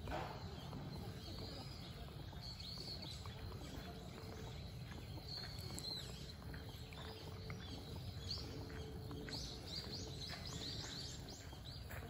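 Wild birds chirping and calling with short high notes over a steady low background rumble, with a quick run of chirps about nine seconds in.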